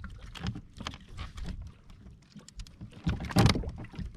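Irregular knocks and rustles on a kayak as a landed mahi-mahi is handled and unhooked, with a louder burst about three and a half seconds in.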